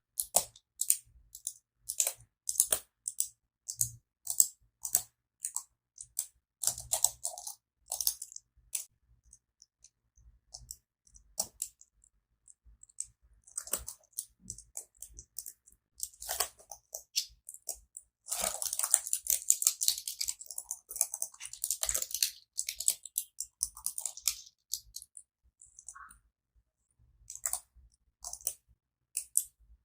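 Keyboard keys being pressed and tapped close to the microphone: irregular crisp clicks, with a dense run of rapid clicking and scraping about two-thirds of the way in.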